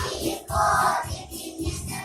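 A group of young children singing a song together in Ukrainian over a musical accompaniment.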